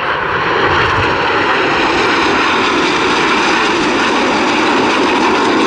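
Red Arrows BAE Hawk T1 jets flying the rollback manoeuvre. Their turbofan engines make a loud, steady jet noise that builds in the first half second, then holds.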